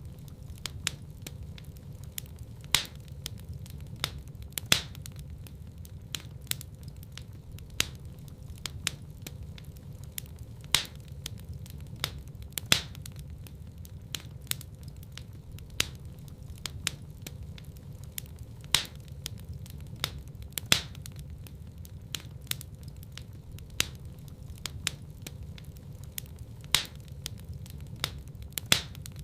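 Wood fire burning in a fireplace, with a low steady rumble of flame and irregular sharp crackles and pops, several each second, some much louder than the rest.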